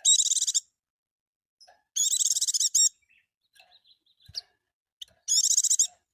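White-eye (pleci) singing: three short, fast trilled phrases, each under a second, spaced about two seconds apart, high-pitched and loud.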